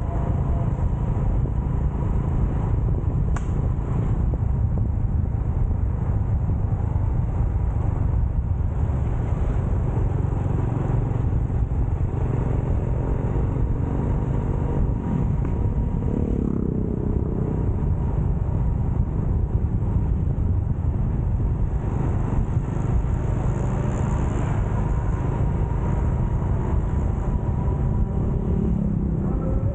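Motorcycle ride heard from the rider's own camera: a steady low rumble of engine and road noise, with a brief click about three and a half seconds in.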